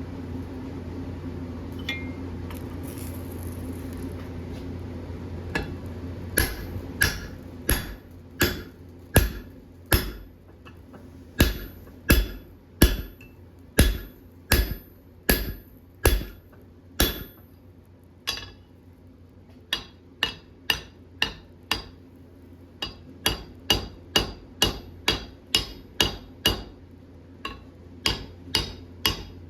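Hammer blows on hot alloy steel bar against an anvil, each strike ringing, over a steady low hum. The blows begin about six seconds in at roughly one and a half a second, pause briefly, then come quicker, about two a second.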